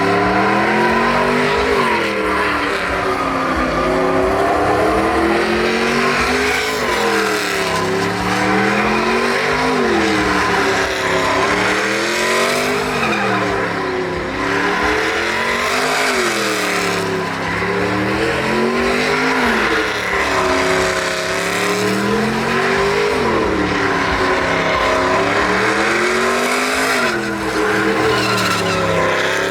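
Truck engine revving up and falling back over and over during a burnout, with tires squealing and spinning on the pavement. The engine pitch climbs and drops about every two to three seconds.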